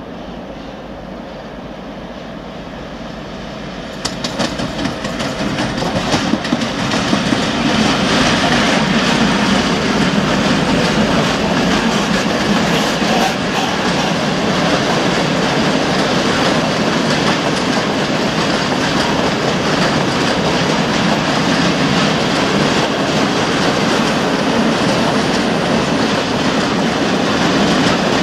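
ST44 (Soviet M62-type) diesel locomotive drawing near with a steady engine drone. From about four seconds in, a long string of open coal wagons rolls past with steady rumbling and the clickety-clack of wheels over rail joints.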